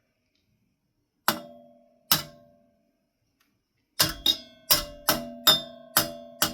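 A metal ceiling fan part, likely the switch housing, is knocked repeatedly, and each knock rings briefly with a clear metallic tone. There are two spaced knocks, then a quicker run of about seven at roughly two a second.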